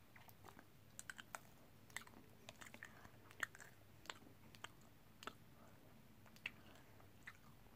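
Faint, irregular wet clicks and smacks of someone chewing a chewy sour mandarin Skittle.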